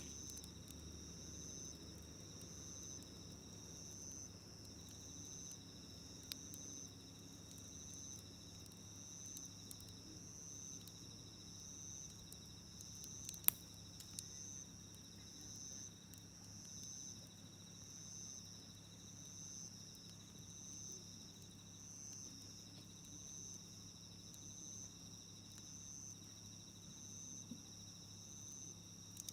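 Night insects calling: one sings in an even pulse of about one call a second, over a second, steady trill. A few sharp crackles from the wood campfire break in, the loudest about halfway through.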